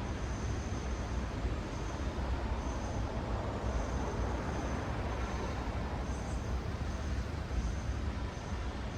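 City road traffic: a steady rumble of cars and other vehicles passing, with short high chirps repeating over it.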